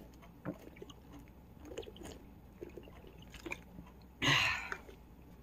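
Soft chewing and mouth sounds with scattered small clicks, broken about four seconds in by a brief burst of rustling noise.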